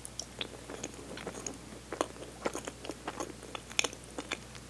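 Close-miked biting and chewing of a soft baked manju (Hakata Torimon): many short, irregular mouth clicks and smacks.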